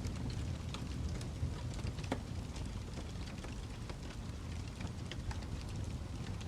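Fireplace fire crackling: a steady low rumble with irregular sharp pops and snaps, one louder snap about two seconds in.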